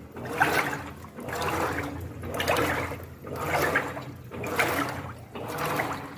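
Electrolux 15 kg washing machine agitating a wash load, water sloshing in the drum in regular surges about once a second as the agitator swings back and forth.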